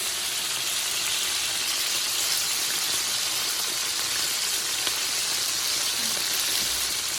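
Chicken strips frying in hot corn oil in a pan, giving a steady, even sizzle.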